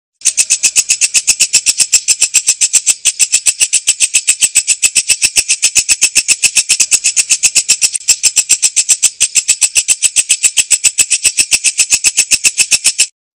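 Walang kecek katydid calling: a rapid, even, high-pitched ticking of about eight pulses a second, which breaks off near the end.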